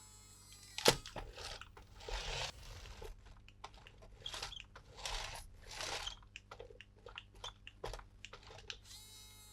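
Plastic toy and packaging being handled: scattered clicks and short crinkling rustles, with one sharp click about a second in.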